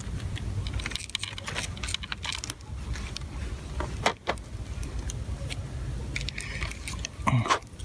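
Small metallic clicks and rattles of wires, clip leads and connectors being handled, over a low wind rumble on the microphone.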